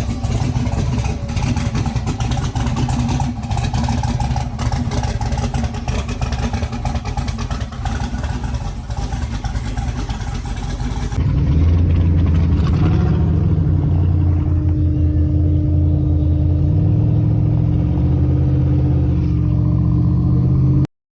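A vehicle engine running loud. The first half is rough and clattery, and about halfway through it changes abruptly to a steadier low engine note whose pitch steps up and down before cutting off.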